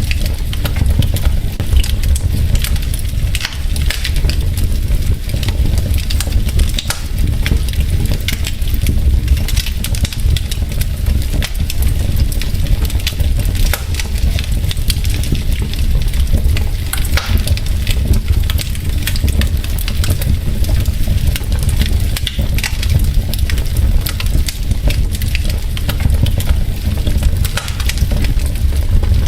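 Wood fire burning in a fireplace: logs crackling with many small sharp pops over a steady low rumble of the flames.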